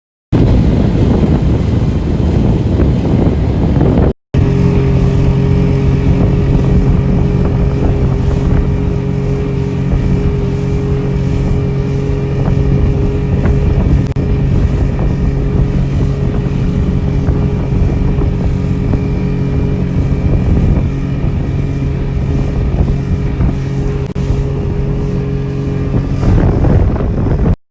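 Speedboat under way: its engine running at a steady pitch over rushing wind and water, with wind buffeting the microphone. The sound cuts out for a moment about four seconds in; before that it is mostly wind and water noise without the engine tone.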